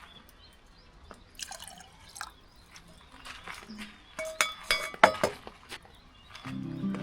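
Liquid dripping and splashing with small knocks, then several sharp, ringing clinks of glass or metal about four to five seconds in. Music comes in near the end.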